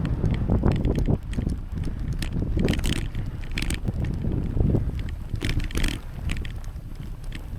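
Wind buffeting the microphone of a moving bicycle, a heavy low rumble, with scattered light clicks and rattles at irregular moments.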